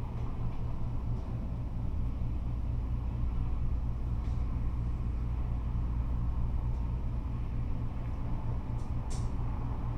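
Steady low rumble of freeway traffic, cars and trucks on the interstate, with a couple of faint short high ticks, one about four seconds in and one near the end.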